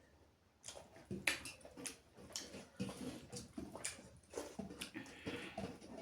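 Close-miked eating sounds: chewing and wet mouth smacks of rice and chicken curry, coming as irregular short clicks after a brief quiet moment at the start.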